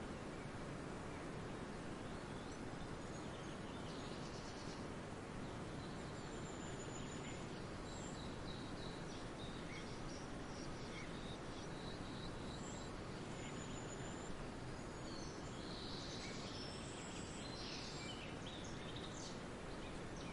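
Forest ambience: several birds chirping and whistling in short, high calls over a steady background hiss, with the calls busiest about three-quarters of the way through.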